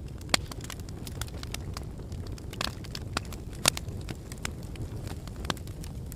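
Wood fire burning in a fireplace: irregular crackles and sharp pops over a low steady rumble, with two louder pops, one about a third of a second in and one a little past halfway.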